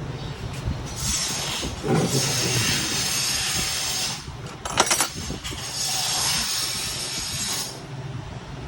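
Two long hissing blasts of a pressurized jet, each lasting about two to three seconds, with a sharp click between them, on an electric pump motor's brush assembly that is being cleaned of stuck carbon.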